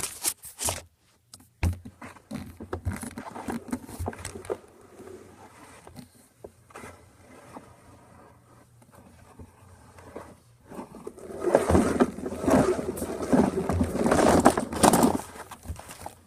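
Toys being handled: scattered clicks and knocks, then a louder stretch of scraping and rubbing from about twelve to fifteen seconds in.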